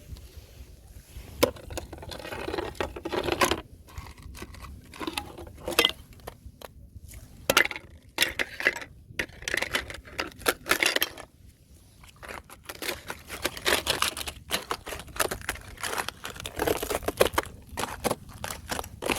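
Thin fresh ice crunching and cracking, with sharp irregular snaps and crackling bursts.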